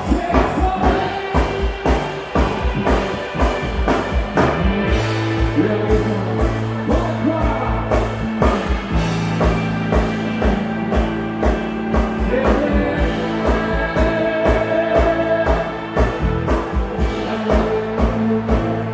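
Live rock band playing: a steady drum beat under held bass notes, with a singing voice.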